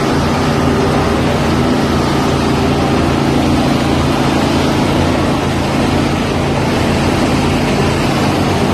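An engine running steadily, a low, even hum under a loud noisy hiss.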